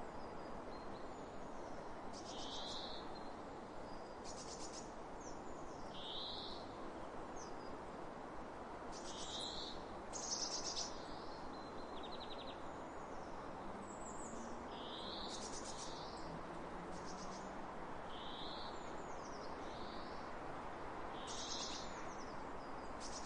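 Outdoor field ambience: birds giving short high chirping calls about every two seconds, with brief buzzy notes between them, over a steady background hiss.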